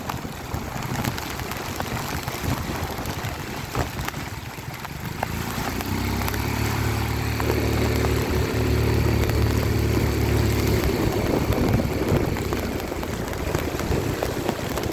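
A motor vehicle's engine passing close by: a low hum that builds from about six seconds in and fades after about eleven seconds, over a steady hiss of wind and rain.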